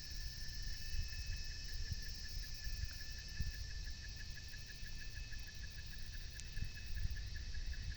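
Insects chirping in a steady, fast pulsing trill, about seven pulses a second, over a high hiss and a constant low rumble.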